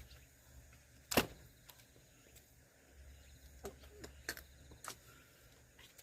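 Wood being split for firewood: one sharp knock about a second in, then a few lighter wooden knocks later on.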